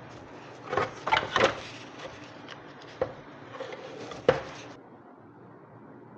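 Several short knocks and clatters of tools and small motor parts being handled during a vacuum cleaner motor repair: a quick cluster about a second in, then single knocks at about three and four seconds.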